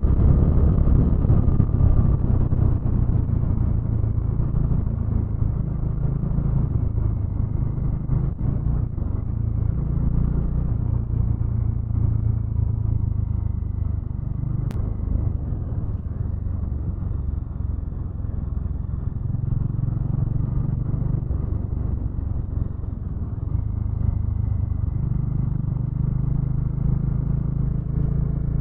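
Motorcycle engine running under way, its note rising and falling with the throttle.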